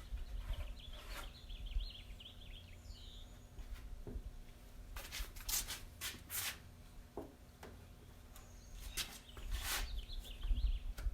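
Short scraping strokes of a body-filler spreader smearing short-strand fiberglass filler over a steel truck door skin, with birds chirping early on and again near the end.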